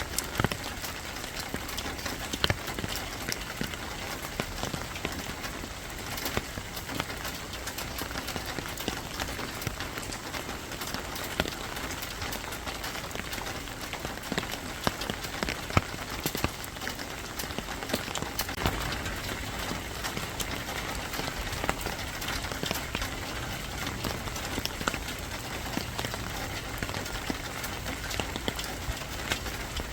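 Steady rain falling, with many separate drops striking a surface as short sharp clicks over an even hiss.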